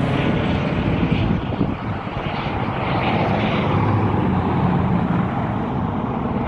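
Aircraft engine droning steadily overhead as the aircraft circles low.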